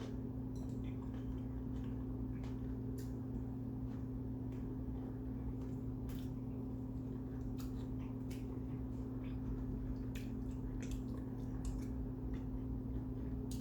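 Close-up chewing of kimbap, with scattered wet mouth clicks and smacks, over a steady low hum.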